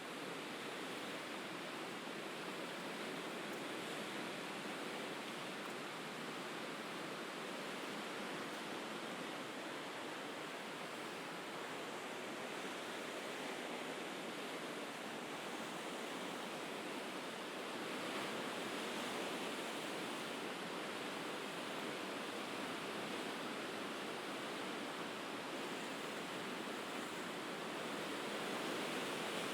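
Mediterranean surf washing steadily against the shore, an even wash of noise that swells slightly about two-thirds of the way through and again near the end.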